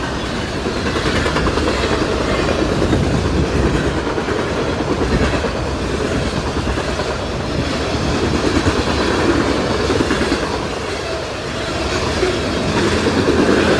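Union Pacific freight train's cars rolling past at speed, steel wheels on the rails making a steady, loud rumble and clatter.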